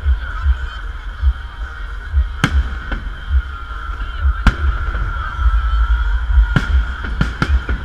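Fireworks salute: about six sharp bangs at uneven intervals, three of them close together near the end, over a constant deep rumble. A steady wavering high tone runs underneath.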